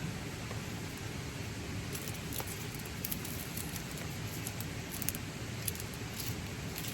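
Heavy rain pattering on a tarp shelter, with scattered sharp drop hits over a steady low rush of water from a nearby waterfall.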